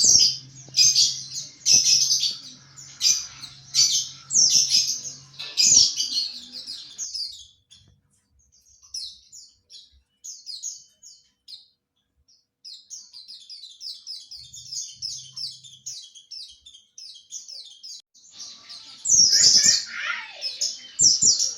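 Pleci (white-eye) twittering in the 'ngriwik' style: runs of rapid, high, thin chirps. A loud stretch is followed by a pause of a few seconds, then softer, quicker chirping, and a louder, fuller burst near the end.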